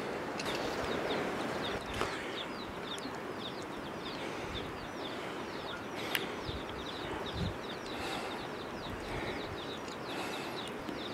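Small birds chirping in quick, short falling notes, several a second, over a steady background hiss, with a few faint knocks.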